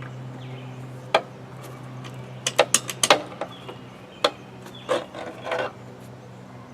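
A string of sharp, irregular clicks and knocks from hand tools working at a lawn mower's oil drain plug, over a steady low hum.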